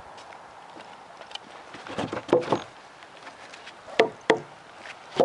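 Hammer striking the weathered cedar boards of a picnic table: about six sharp wooden knocks in small groups, starting about two seconds in, as the nailed boards are knocked loose.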